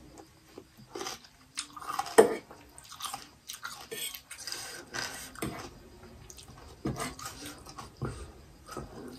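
Close-up crunching and chewing of a raw cucumber slice: irregular crisp bites and chews, the loudest about two seconds in.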